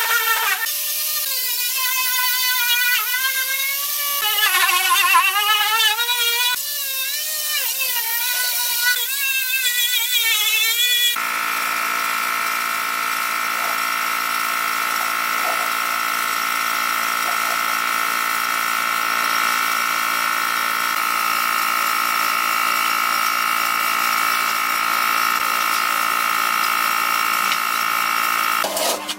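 Small electric power tool motor running. For the first ten seconds or so its whine wavers up and down in pitch as if the load varies, then it settles into a steady whine until shortly before the end.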